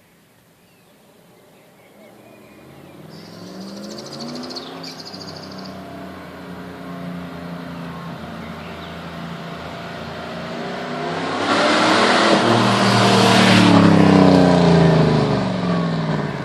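Jeep Grand Cherokee's 5.2-litre V8 running and drawing closer. It builds steadily louder to a loud peak of exhaust rush about twelve to fourteen seconds in, then eases off slightly.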